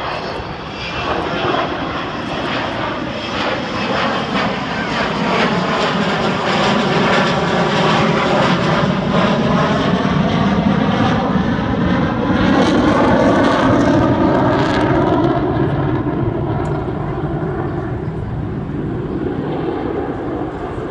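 Avro Vulcan bomber's four Olympus jet engines during a slow, low pass, the jet noise growing louder to a peak about two-thirds of the way through and easing off near the end, with a sweeping, phasing tone as the aircraft goes by.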